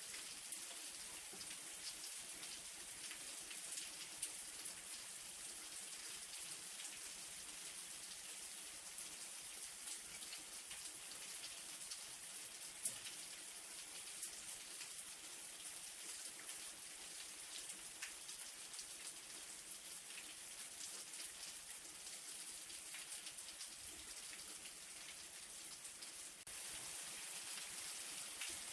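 Light rain falling steadily: an even hiss with scattered individual drops ticking, a few of them louder than the rest.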